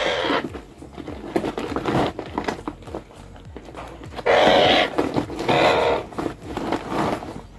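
Parakeet giving harsh, raspy squawks in distress while being held, two loud ones about four and a half and five and a half seconds in, with fainter calls earlier.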